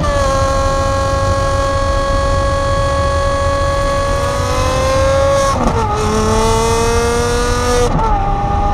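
Lamborghini Aventador SVJ's naturally aspirated V12 with a Gintani F1-style exhaust pulling hard, its high, shrill note climbing steadily through the gears. Quick upshifts drop the pitch right at the start, about five and a half seconds in and again near the end.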